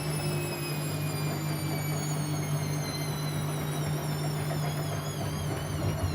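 Siemens Siwamat C10 washing machine running: a high motor whine falls slowly in pitch and begins to waver near the end, over a steady low hum.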